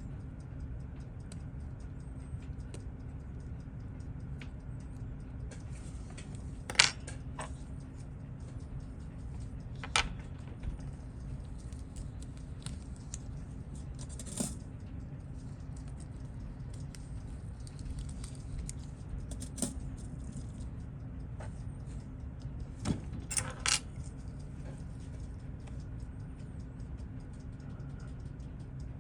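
Small metal watch parts and tools clicking and clinking on a workbench, a few scattered sharp clicks with a small cluster near the end, over a steady low background hum.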